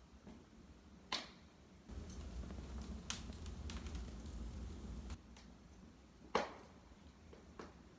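Wood fire burning in a fireplace: a low rumble of the flames with sharp crackles and pops, the loudest about a second in, around three seconds and near six and a half seconds.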